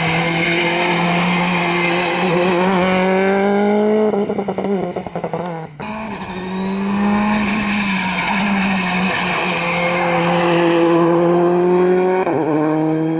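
Rally car engine at full throttle, its pitch climbing steadily as it pulls through the revs. The note drops back about two thirds of the way through a first long climb, then rises again and drops once more near the end.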